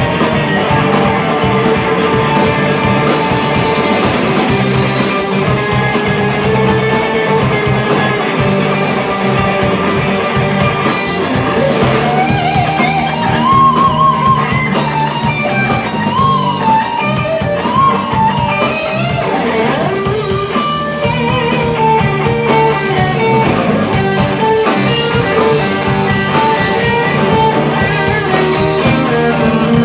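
Live rock band playing an instrumental passage, with guitar to the fore over drums. From about twelve seconds in, a lead line with bending notes rides on top.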